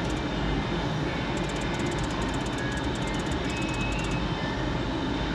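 Steady background din of a casino floor, with a few short, faint electronic tones from other slot machines around the middle.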